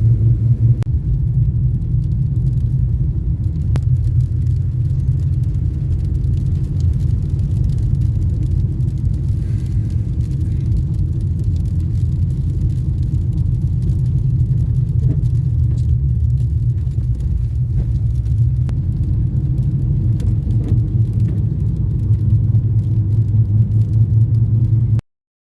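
Steady low rumble that runs evenly and cuts off abruptly near the end.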